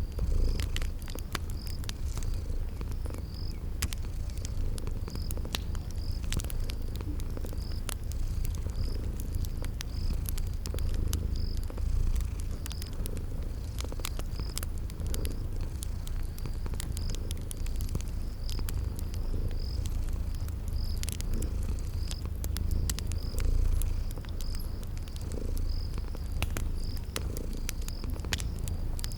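Cat purring steadily in a low, pulsing rumble, over the scattered pops and crackles of a wood fire and crickets chirping about once a second.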